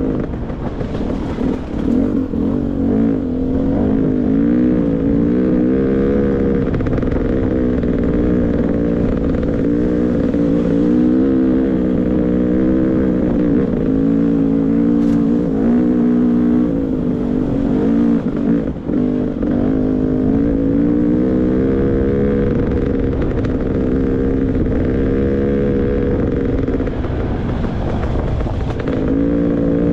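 Beta 300 RR two-stroke dirt bike engine running on the trail, its revs rising and falling continually with the throttle. There is a short drop about 19 seconds in.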